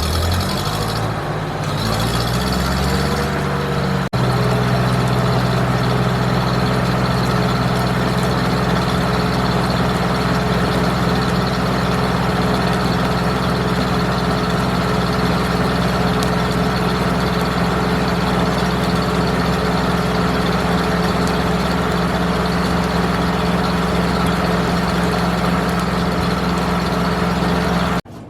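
Engine driving a circle sawmill, brought up from idle over the first few seconds and then held at a steady speed while the mill's RPM is checked. It stops abruptly near the end.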